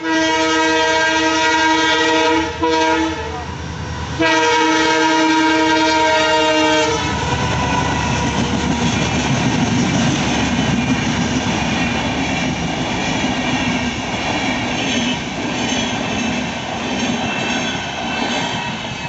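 Passing train's horn sounding in long blasts: about two and a half seconds, then a brief blast, then about three more seconds after a short gap. The horn then gives way to the coaches' wheels rumbling and clattering steadily over the rails as the train runs through the level crossing.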